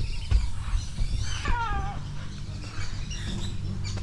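A single animal cry, meow-like, falling sharply in pitch over under half a second, about a second in.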